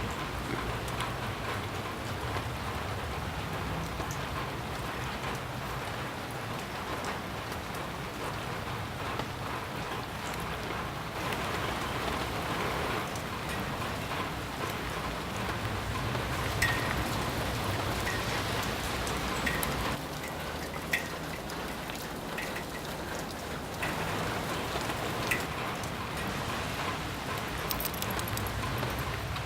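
Steady rain falling and pattering on surfaces, with a few sharper single drop ticks now and then.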